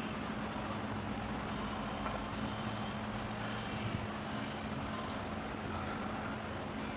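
Steady mechanical hum, a constant low drone over even background noise, with a faint click about four seconds in.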